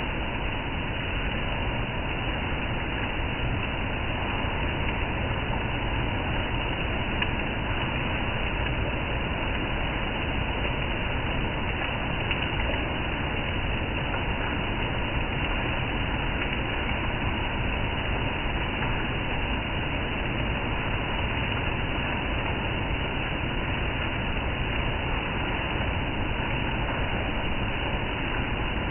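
Steady, unbroken rain noise, an even hiss with a low rumble underneath.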